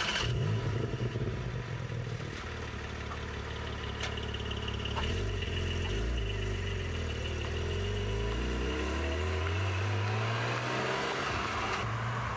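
Porsche 718 Cayman GT4's flat-six engine running and revving as the car pulls away at low speed. For a few seconds in the middle a faint, steady, high-pitched brake squeal sounds above it, a squeal that appeared on the car's new standard (non-ceramic) drilled brakes after only 2,000 km.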